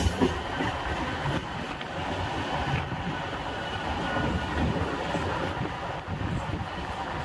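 Western Railway suburban electric local trains running on the rails: a steady rumble, heard from aboard a moving train as another local passes alongside.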